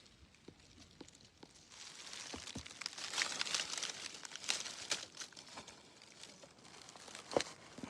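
Rustling and crackling of dry leaves and twigs being disturbed. It starts as a few scattered snaps, thickens into a steady crackle in the middle and ends with one sharper snap.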